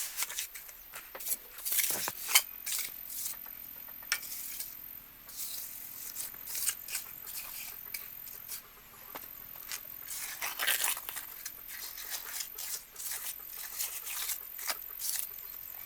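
Irregular scraping, rustling and clicking handling sounds, short and uneven, with a faint steady high-pitched whine underneath.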